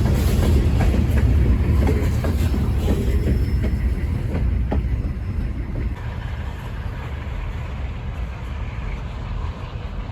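Delaware-Lackawanna sand train rolling past: a heavy low rumble with sharp wheel clicks over the rails, growing quieter about six seconds in as the train draws away.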